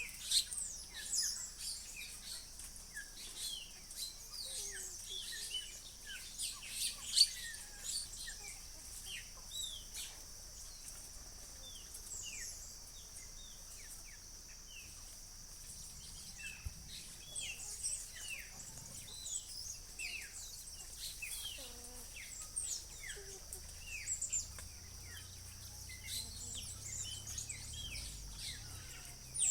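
Several wild birds chirping, many short falling calls overlapping, over a steady high-pitched drone.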